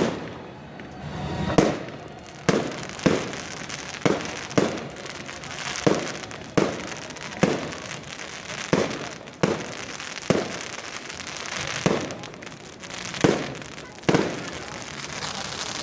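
Fireworks going off in a steady rapid series, about one bang every two-thirds of a second, with crackling between the bangs.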